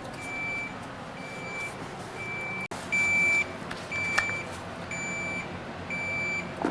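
Samsung French door refrigerator's electronic beeper sounding a steady high beep about once a second.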